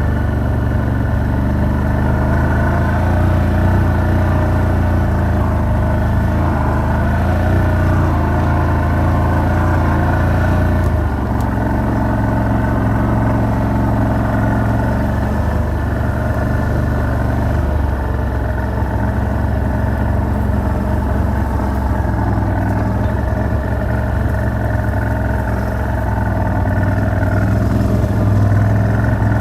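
A vehicle's engine running steadily while driving, with a shift in engine note about eleven seconds in.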